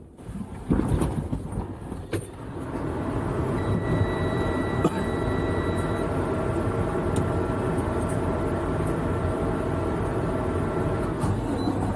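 Semi truck's diesel engine running steadily. It comes up loudly within the first couple of seconds after a quiet start.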